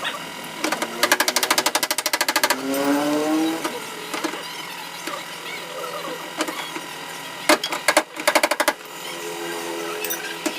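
Sped-up car body repair work: two bursts of rapid, evenly spaced knocks, one about a second in and one near the end, each lasting a second or more. Between them is a brief rising pitched sound.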